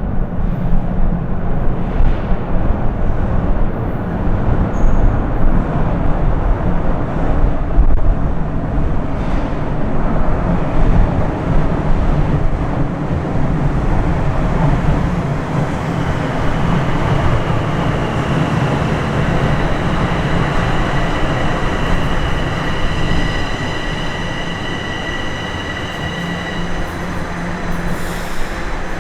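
Bombardier Toronto Rocket subway train running on the rails with a steady rumble. About halfway through, a high whine joins in and fades out shortly before the end.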